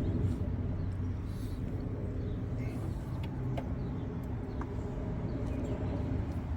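A vehicle engine running steadily with a low hum, with a few faint small clicks over it.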